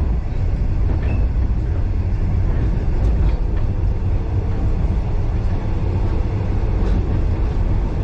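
Passenger carriage of a heritage train running along the track: a steady low rumble with a few faint clicks from the wheels and rails.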